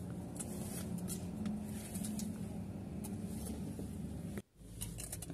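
Car engine running steadily, heard from inside the cabin as a low hum, with a few faint clicks. The sound drops out suddenly for a moment about four and a half seconds in.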